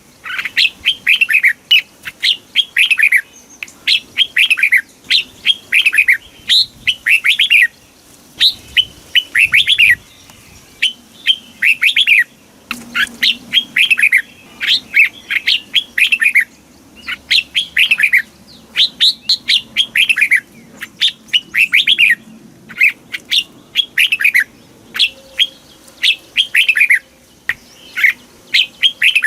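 Red-whiskered bulbul singing: loud phrases of quick, arching whistled notes, one phrase after another with short gaps between.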